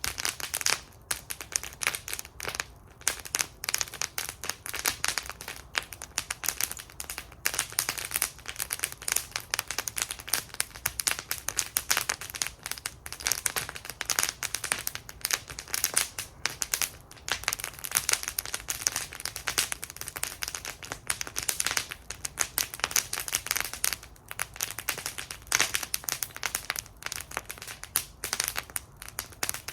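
Wood fire burning in a fire bowl, crackling and popping continuously with dense irregular snaps.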